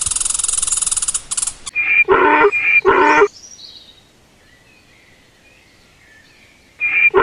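Birds calling: a dense, rapid buzz stops about a second and a half in, then a run of loud, harsh calls comes about two seconds in and again near the end.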